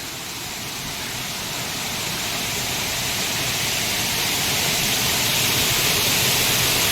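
Waterfall rushing, a steady wash of falling water that grows gradually louder.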